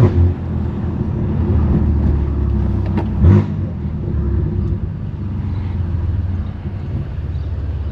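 Straight-piped BMW S55 twin-turbo inline-six of an F80 M3 Competition running at low revs with a steady deep rumble, heard from inside the car. A short loud burst comes about three seconds in.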